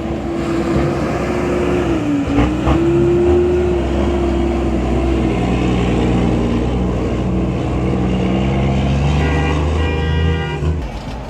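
Motor vehicle engine running steadily on the road, with a held drone that dips briefly about two seconds in and a brief higher-pitched tone near the end.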